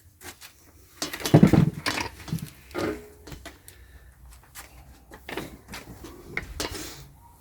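Irregular knocks, clicks and scraping as the metal ash vacuum is handled and opened, its motor not running; the loudest clatter comes about a second and a half in.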